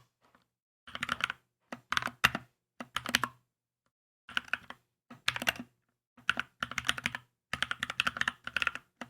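Typing on a Keychron K2 mechanical keyboard: quick runs of keystrokes, with short pauses between the runs.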